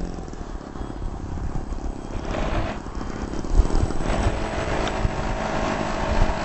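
RC airplane's motor and propeller whining as it flies, heard briefly a couple of seconds in and then steadily through the second half, over a steady low rumble.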